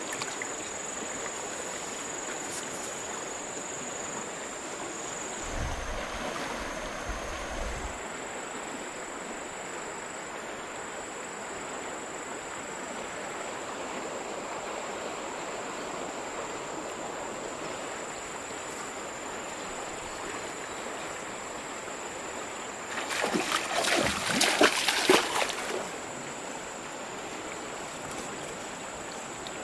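River water flowing steadily, with a burst of splashing in the water for a few seconds near the end, the loudest part. A thin, steady high-pitched tone runs underneath.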